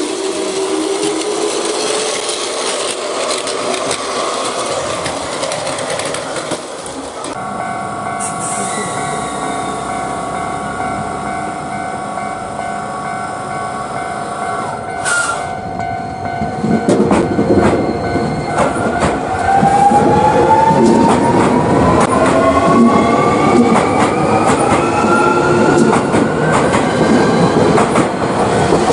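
Electric train: a motor whine falling in pitch at first, then steady tones with a sharp click about halfway through. From about two thirds of the way in comes a louder motor whine that rises in pitch as the train pulls away.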